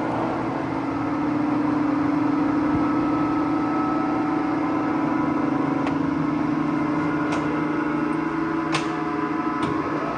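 Clausing Colchester 17-inch engine lathe running, a steady machine hum, with a few light clicks in the second half.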